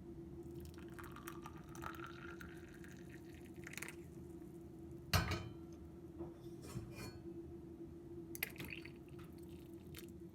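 Liquid poured into a glass, its pitch rising as the glass fills, with light clinks of glassware and one louder knock about five seconds in, over a steady low hum.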